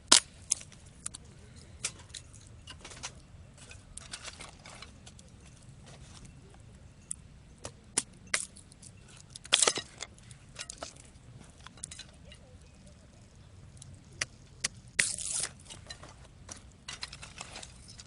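A small wood fire crackling, with irregular sharp pops and clicks, and two longer scratchy noises about ten and fifteen seconds in.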